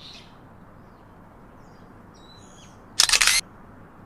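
Faint bird chirps over an outdoor background, then about three seconds in a loud, short burst of hiss, the first of several that repeat about once a second.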